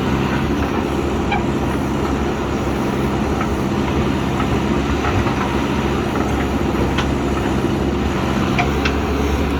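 Diesel engine of a JCB backhoe loader running steadily under work, with a few light knocks near the end.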